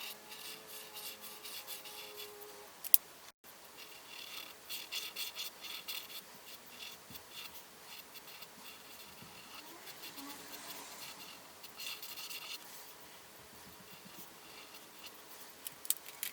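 Colouring tool scratching on paper in rapid back-and-forth strokes, coming in runs with short pauses, as a colouring page is filled in. A single sharp click about three seconds in.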